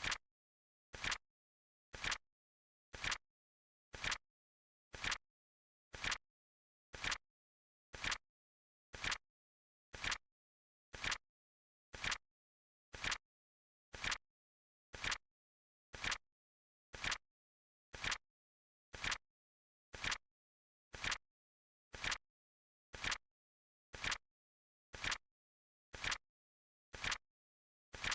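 Flip clock timer sound effect: a short, sharp flip click once every second, evenly spaced, with dead silence between.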